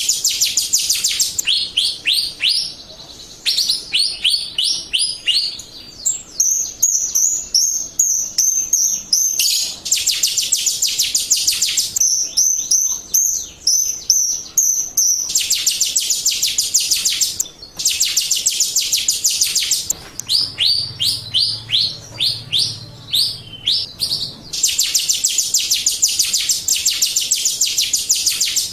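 Jalak Rio starling singing gacor-style: loud, fast runs of sharp downward-sweeping chirps in bursts of a few seconds, broken by stretches of high whistled notes.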